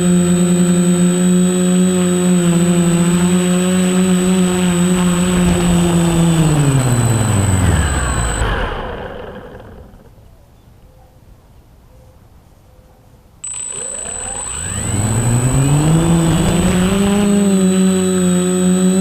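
Quadcopter's electric motors and propellers whining steadily, then spooling down about seven seconds in as the throttle drops. They stay quiet for a few seconds and spool back up to a steady whine with rising pitch.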